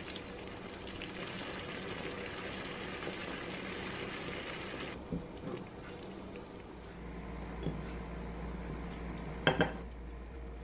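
Curry sauce and tofu noodles sizzling in a pan on a gas stove as they are tossed, for about the first five seconds, then cutting off abruptly. A quieter low hum follows, and near the end come two quick clinks of cookware against a ceramic serving plate.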